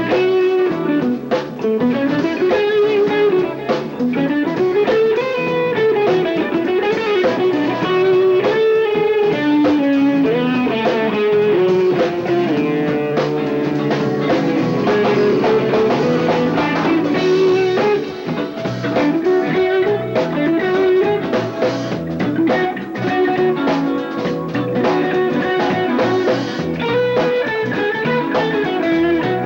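Rock band playing live in an instrumental passage: electric guitar taking a flowing, winding lead line over a drum kit, in a muffled cassette recording of the whole band.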